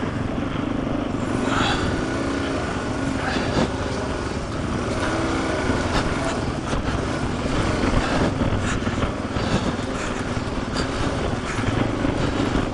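Suzuki DR-Z400 single-cylinder four-stroke dual-sport motorcycle engine running at low, steady trail speed, with scattered knocks and clatter as the bike goes over rocks.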